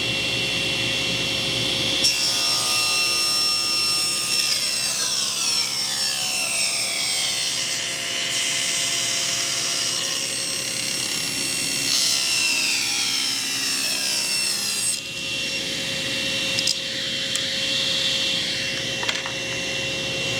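Table saw making a rip cut through a board. The blade bites into the wood about two seconds in, with repeated falling whines as it cuts. It clears the board about fifteen seconds in, and the saw then runs on freely.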